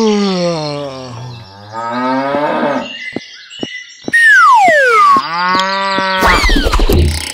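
Cattle mooing as a dubbed sound effect: several long moos, the first ones falling in pitch. A loud falling whistle comes about four seconds in, and a heavy thud near the end, both cartoon-style effects.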